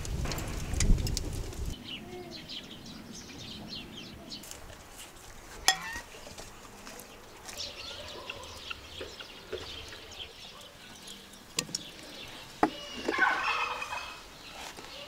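Birds calling, with scattered high chirps and a louder warbling call about thirteen seconds in. There is a low rumble in the first two seconds and a few sharp knocks.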